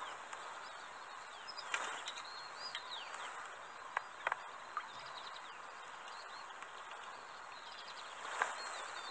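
Many small birds twittering, with short, high chirps and whistles overlapping throughout, and a few soft clicks.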